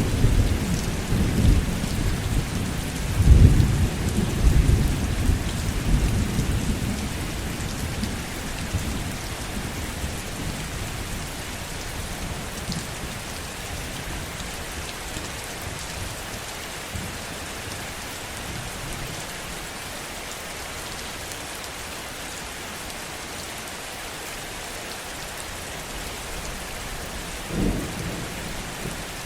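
Heavy rain falling steadily, with thunder rolling through the first several seconds and fading away, and another brief rumble of thunder near the end.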